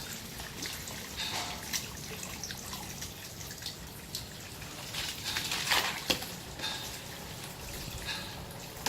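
Water splashing and dripping off a car being washed, in irregular small splashes with a louder splash about six seconds in.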